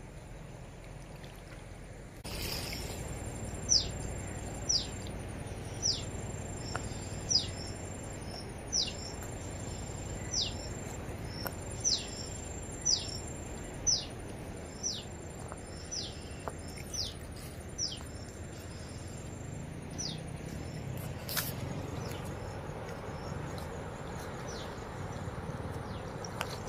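A bird calling over steady outdoor noise: a short, high whistle that falls in pitch, repeated about once a second. The noise steps up about two seconds in.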